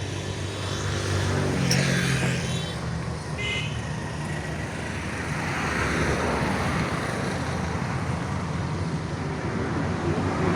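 Ford 4600 tractor's diesel engine running steadily, with short high-pitched tones about two seconds in and again about a second and a half later.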